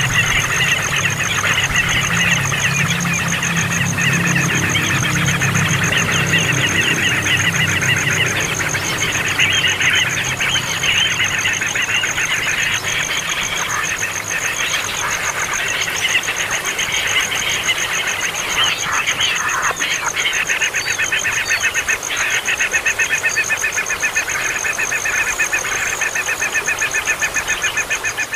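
Baby birds calling noisily, with fast chattering cheeps crowding over one another in a continuous din.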